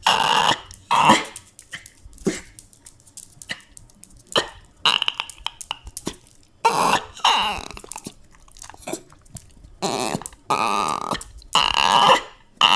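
A dog whining and grumbling in a string of short vocal bursts, about ten of them with uneven gaps between.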